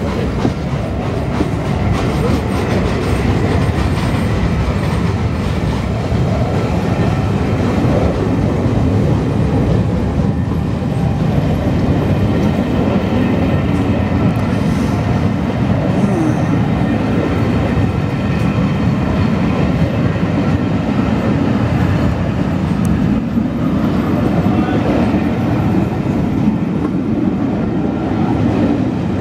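Pullman coaches rolling past at close range: a steady, low rumble of wheels on the rails that holds even throughout.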